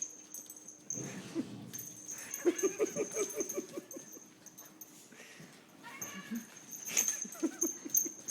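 Pet animals at play, a pug puppy and a cat: short runs of rapid pulsed vocal noises, one about two and a half seconds in and another near seven seconds in.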